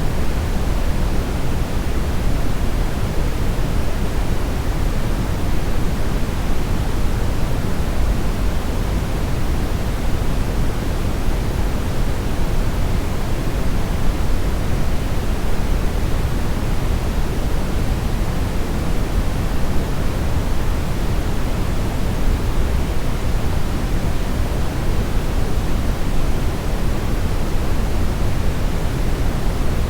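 Steady synthetic brownish noise: an even, unbroken rushing hiss weighted toward the low end, with no events or changes.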